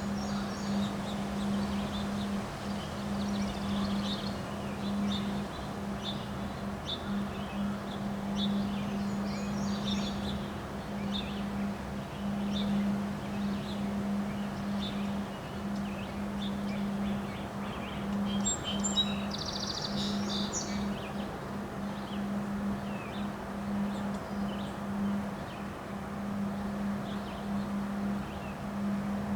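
Wind blowing, with birds chirping on and off over a steady low hum, and a brief burst of busier chirping about two-thirds of the way through.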